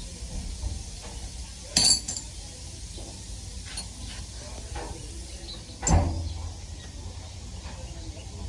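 Metal tools and bike parts clinking during a repair: a sharp metallic clink about two seconds in and a heavier knock near six seconds, with lighter taps in between.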